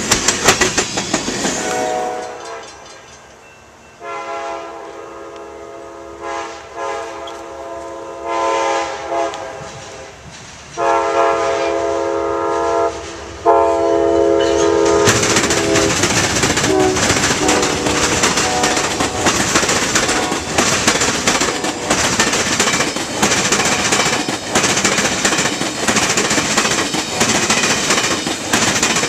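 A diesel locomotive's multi-chime air horn sounds several long blasts. The train then passes close with a loud, steady rumble and clickety-clack of wheels over the rail joints.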